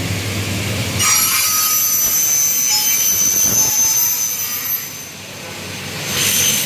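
Double-head aluminium cutting saw with its motor humming steadily. About a second in, the blade cuts through aluminium with a loud, high-pitched whine for nearly four seconds. A shorter, similar burst comes near the end.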